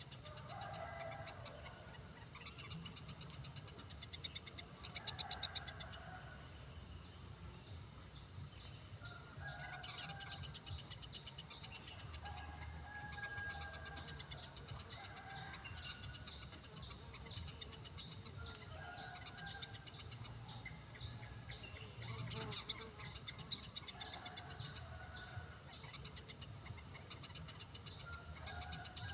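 Insects chirring steadily in a high drone, with a short bird call at two pitches repeating every four to five seconds over it.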